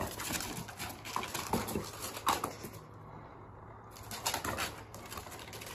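A dog's claws clicking and scuffing irregularly on a tiled floor as it chases and pounces on a laser dot, with a quieter stretch a little past the middle.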